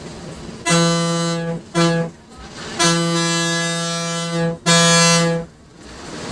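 Bus horn sounded in four blasts of one steady, reedy pitch: two short, then a long one and a slightly shorter one, over the bus's road noise.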